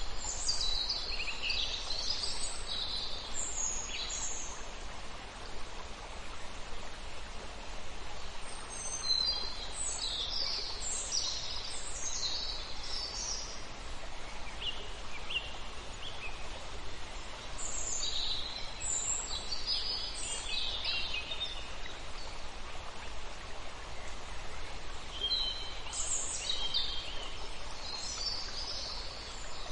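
Birds chirping and calling in clusters of short high notes every eight seconds or so, over a steady outdoor background hiss.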